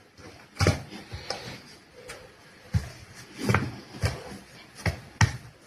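A handful of scattered knocks and clunks, about six of them at irregular intervals.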